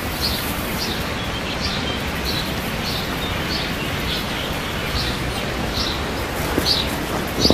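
A bird chirping over and over, one short high chirp about every two-thirds of a second, over a steady hiss of outdoor noise.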